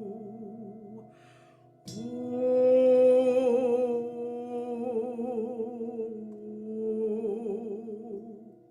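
A woman's voice humming long held notes with a wavering vibrato over a steady sustained drone. The first note ends about a second in, a breath follows, and a louder note starts about two seconds in and swells again near the end.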